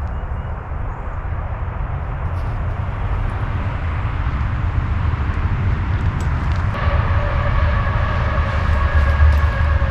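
Road traffic noise: a low rumble that grows louder as a vehicle approaches, with a steady whine joining about seven seconds in.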